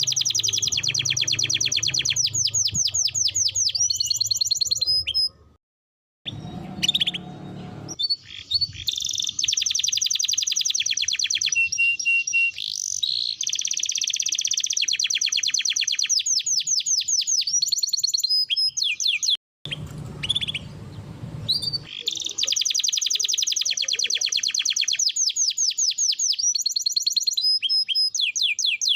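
Domestic canary singing in long, rapid trills and rolls of fast repeated notes. The song breaks off abruptly twice and resumes.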